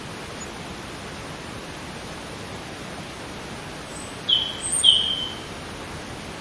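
Steady hiss of background noise, with two short high chirps about four and five seconds in, like a small bird calling.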